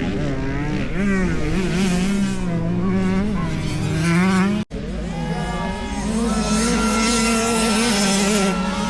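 Motocross dirt bike engines revving, their pitch rising and falling, with a sudden break about halfway through followed by more engine sound at steadier pitch.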